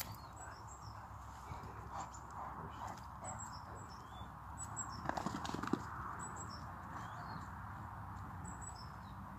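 Small birds chirping, short high calls every second or so, over a steady outdoor hiss. A burst of rustling with a few knocks comes about five seconds in.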